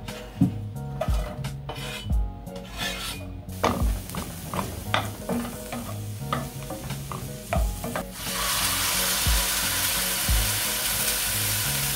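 Diced onions sizzling in oil in a frying pan on a gas hob, stirred with a wooden spoon that taps and scrapes the pan. About eight seconds in, the sizzle jumps much louder and stays loud as the contents of a can go into the hot pan.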